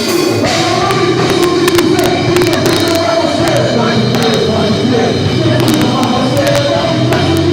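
Loud live music with a drum kit and voices singing.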